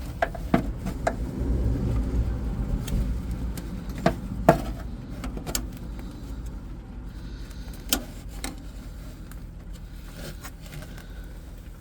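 Scattered clicks and knocks from hands handling parts under the dash, over a low steady rumble that eases after the first few seconds.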